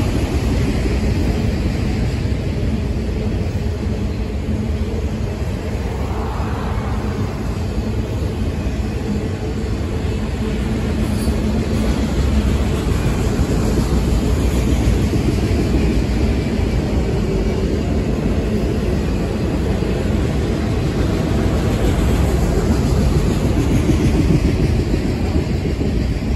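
Freight train of autorack cars rolling past, with the steady rumble and clatter of steel wheels on rail.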